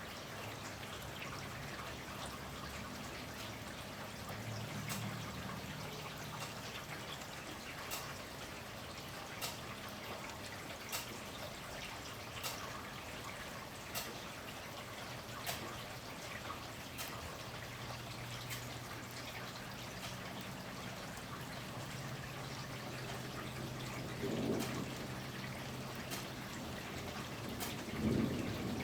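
Steady rain falling, with a drip landing regularly about every second and a half, and low rumbles of distant thunder now and then.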